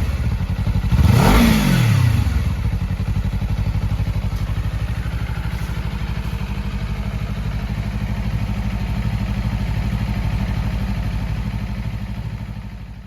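Honda CBR250RR parallel-twin motorcycle engine blipped once about a second in, the revs rising and falling back, then idling steadily until the sound dies away near the end.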